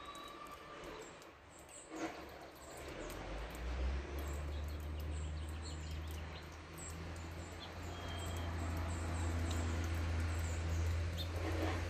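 Small birds chirping here and there in short high notes over steady outdoor background noise. About three seconds in, a low steady rumble comes in and grows louder.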